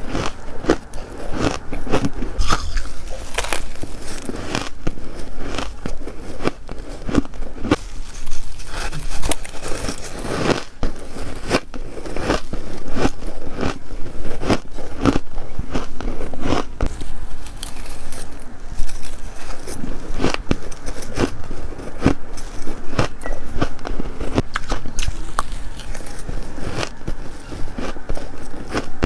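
Close-miked bites of crunchy freezer frost, crunching and crackling in a quick run of sharp crunches, several a second.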